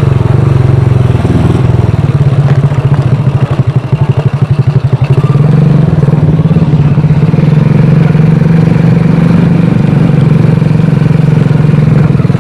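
Honda Astrea Grand's small single-cylinder four-stroke engine running steadily under the rider. About three seconds in it drops to a slower, pulsing beat for a couple of seconds, then picks up and runs steadily again.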